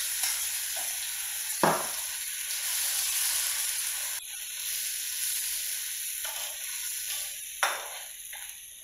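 Tomato-and-onion paste frying in hot oil in a nonstick pan, stirred with a metal spoon: a steady sizzle that drops sharply about four seconds in and keeps dying down, with two knocks of the spoon against the pan.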